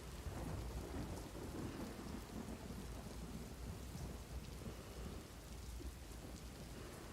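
Thunderstorm: steady rain falling, with a low roll of thunder swelling just after the start and fading away over the next few seconds.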